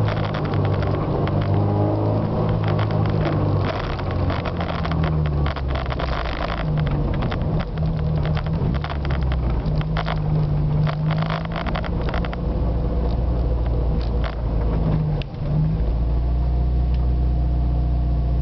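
Yugo 1.6's engine heard from inside the cabin while crawling in slow traffic, its note rising and falling with light throttle. Irregular crackling and rattles come through the middle. After a brief dip near the end it settles to a steady idle.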